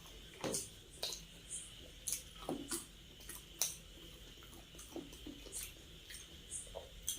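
Close-miked chewing and wet mouth sounds of someone eating: irregular short smacks and clicks, several a second.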